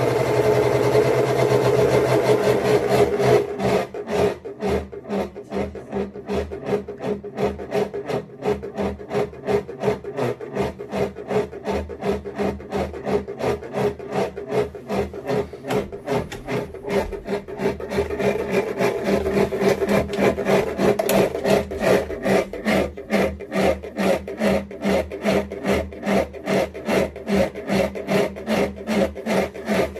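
A bathroom ventilation fan running with a steady hum and a rhythmic scraping rub, about two or three times a second. This is an abnormal noise, the sign of a fault in the fan.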